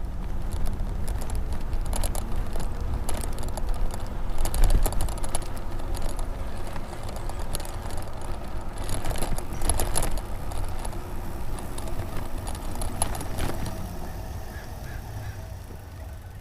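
Riding an e-bike over a rough surface: a steady low rumble of wind and tyres with frequent rattles and clicks from the bike and its load, easing off near the end.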